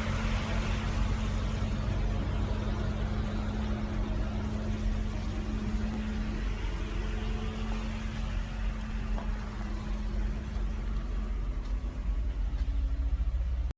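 A motor vehicle running steadily: a constant engine hum with a held low tone and road or traffic noise over it.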